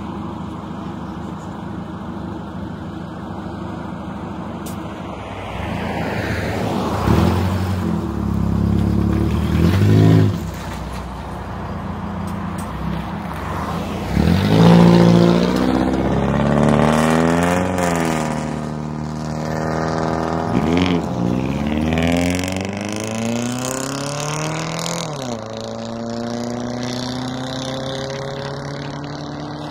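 Road vehicles going by, one engine accelerating through its gears: the pitch climbs and drops sharply at each shift, several times over, before settling to a steady drone near the end.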